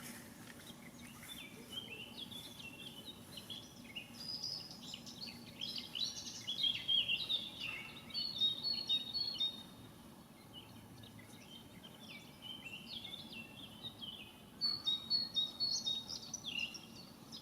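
Songbirds singing outdoors in bouts of quick, high chirping notes, with a pause of a few seconds past the middle, over a low steady background noise.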